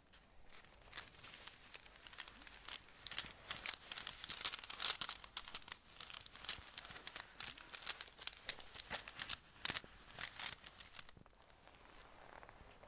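Close-up crinkling and rustling handling noise, thick with sharp little clicks, which thins out near the end.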